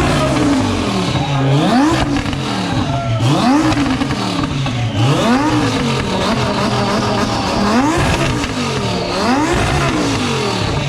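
Twin-turbo Lamborghini engine revved over and over from idle, about six sharp blips, each rising and falling in pitch, with the engine idling between them.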